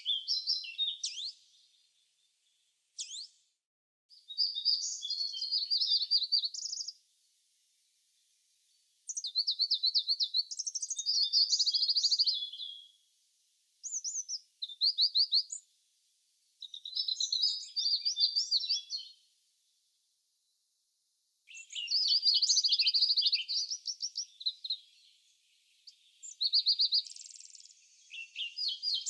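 A songbird singing a run of quick, varied, trilling phrases, each two to four seconds long, with short pauses between them.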